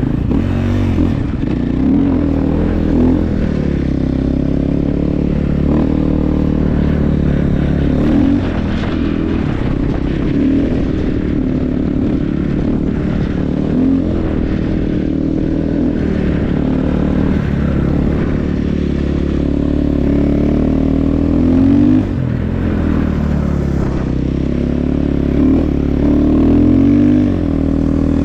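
Snow bike engine running under way, its revs rising and falling with the throttle.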